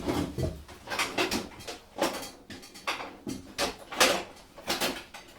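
Brass wire brush scrubbing sawdust out of a freshly cut wooden thread, in quick rasping strokes about two a second.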